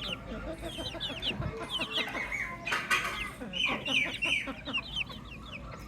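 Baby chicks peeping: a steady stream of many short, high chirps, each sliding down in pitch, overlapping one another. A brief louder rustling burst about three seconds in.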